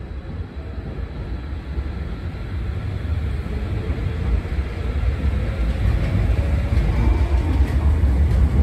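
Hankyu 1000 series electric train pulling out of the station and gathering speed past the platform: a low rumble of wheels and running gear that grows steadily louder as it accelerates.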